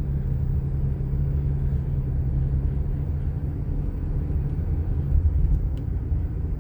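Low rumble of a car being driven, engine and road noise heard from inside the cabin, with a steady low hum that fades about four seconds in.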